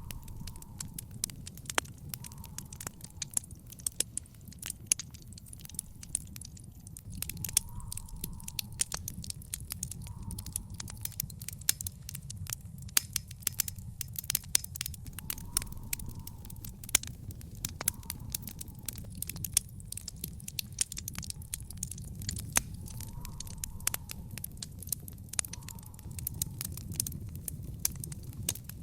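Wood fire in an outdoor fire pit crackling, with many sharp pops and snaps over a steady low rumble.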